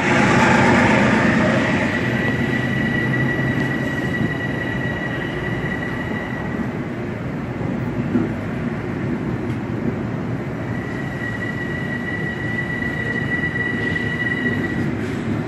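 Passenger train moving along the track with a steady rumble of wheels and cars. A thin, high steady wheel squeal comes in near the start and fades after a few seconds, then returns for several seconds near the end.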